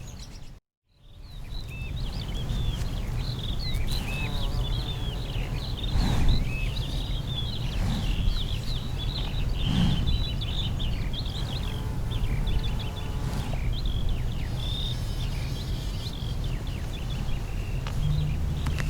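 Many small birds chirping and twittering over a steady low rumble of outdoor noise, with a brief dropout to silence just under a second in.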